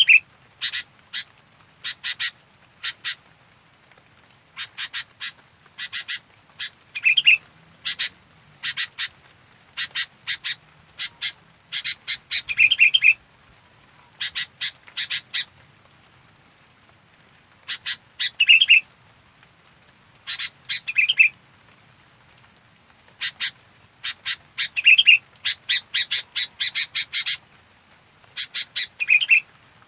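Sooty-headed bulbul (kutilang) calling: clusters of short, quick, repeated chattering notes every second or two, over a faint steady high tone.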